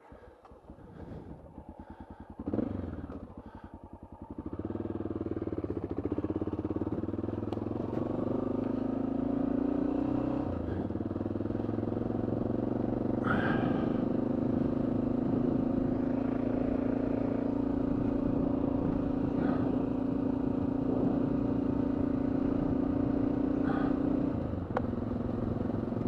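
Honda XR650L's single-cylinder engine pulling away from a stop: it idles with a quick pulse, then gets louder and climbs in pitch through the lower gears. Pitch drops at a shift about ten seconds in, then holds steady under way, with another shift near the end.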